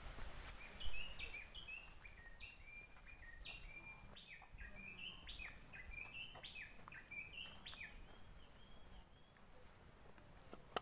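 A songbird singing a long run of short chirping notes, about four a second, that jump up and down in pitch, with one sharp click about a second in.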